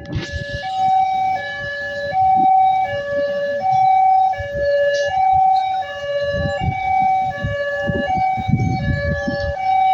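Electronic two-tone warning siren alternating steadily between a high and a low note, each held about half a second, over a low rumble.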